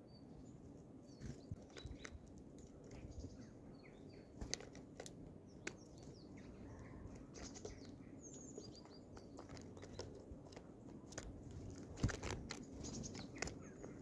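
Small songbirds at a grain feeder: scattered short high chirps, with many light taps and clicks as birds land and peck on the wooden tray. A louder thump comes about twelve seconds in.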